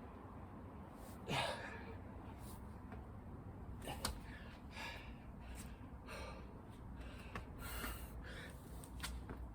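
A man breathing hard in irregular gasps, out of breath from a long burpee and chin-up workout, with a couple of sharp knocks.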